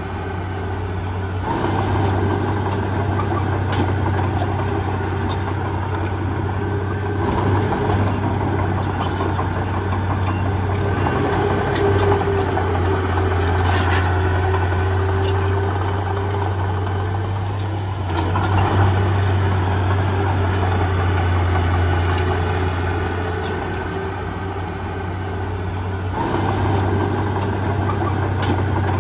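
Heavy diesel earthmoving machine running steadily, with a deep low hum that swells and dips several times. Scattered faint clicks and crackles sound over it.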